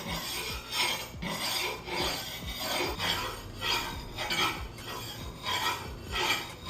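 Rolling knife sharpener's 6000-grit whetstone disc being rolled back and forth along the edge of a heavy steel cleaver: a steady rhythm of rasping strokes, about two a second.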